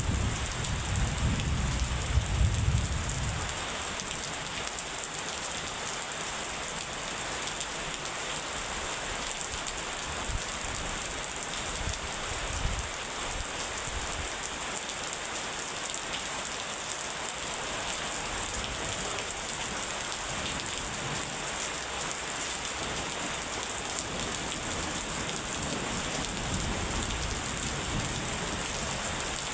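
Steady heavy rain falling, with a low rumble of thunder dying away over the first few seconds.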